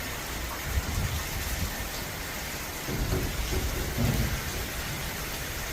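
Heavy rain falling in a steady hiss, with low rumbles swelling up twice, about a second in and again past the middle.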